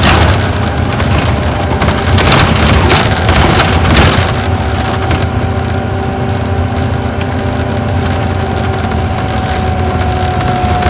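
Isuzu Gala coach's V engine running under way, heard from inside the passenger cabin, a low rumble with a thin steady whine that rises a little and then holds. A few knocks and rattles over bumps in the first four seconds.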